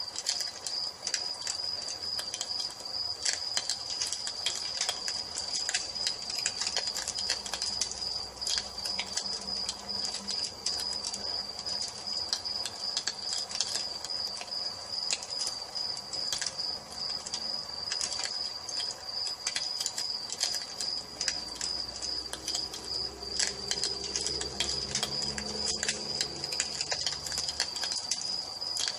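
Wood fire crackling with many small pops, over crickets chirping steadily in a fast, even pulse.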